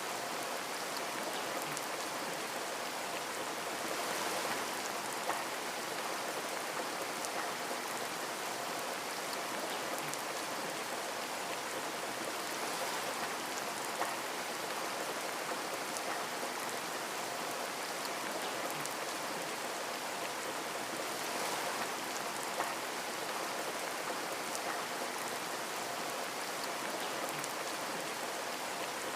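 Steady rain falling on a window, an even hiss dotted with individual drop taps, a few of them sharper and louder.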